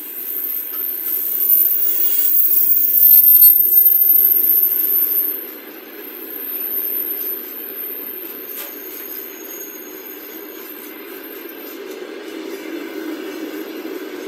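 Freight train wagons rolling past on the rails with a steady rumble, and a thin high whine that is loudest in the first few seconds.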